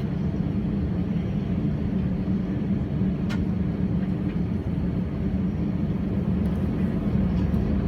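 Steady hum of an Airbus A320-family jet's engines and airflow heard inside the passenger cabin, with one short click about three seconds in.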